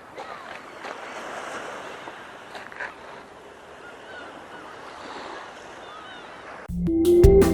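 Steady wash of water and wind with faint, brief bird calls scattered through it. About seven seconds in, electronic music cuts in abruptly.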